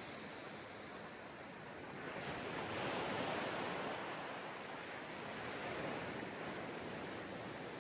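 Sea waves breaking on a sandy beach: a steady wash of surf that swells as a wave breaks about two seconds in, peaks a second later and eases off, with a smaller surge near six seconds.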